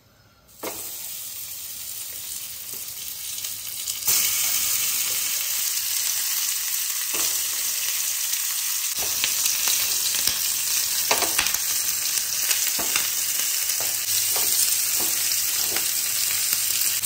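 Marinated corn-on-the-cob pieces sizzling in hot oil in a frying pan, with scattered crackles and pops. The sizzle starts about half a second in and gets louder about four seconds in.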